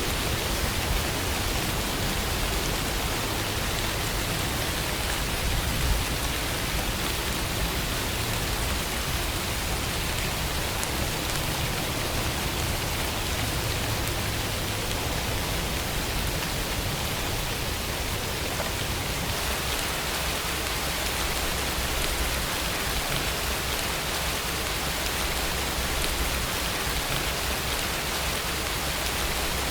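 Steady rainfall: an even hiss of rain with a low rumble beneath it.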